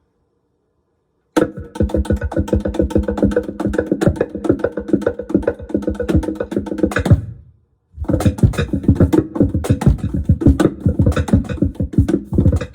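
Laptop cajon played with fast, dense hand strikes through a Digitech BP355 bass multi-effects pedal, the effect adding steady pitched tones under the hits. It starts about a second and a half in, breaks off briefly around seven seconds, then starts again.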